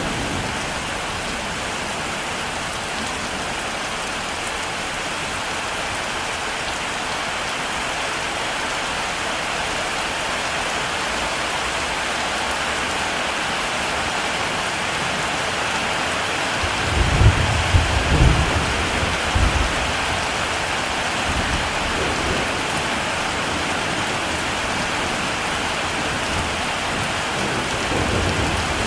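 Heavy rain falling steadily, with a low rumble of thunder a little past halfway and a fainter one near the end.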